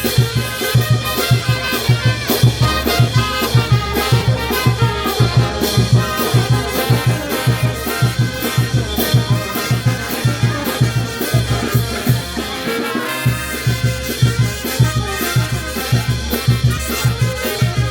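A Peruvian brass band plays a lively tune: trumpets and trombones over a steady, driving beat of bass drum strokes.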